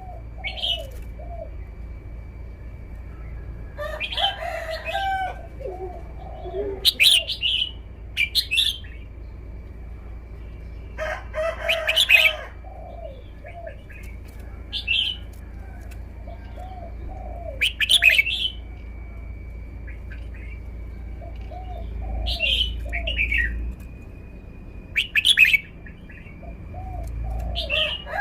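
Red-whiskered bulbul singing: short, loud, bright whistled phrases repeated every few seconds, with softer lower chirps between them.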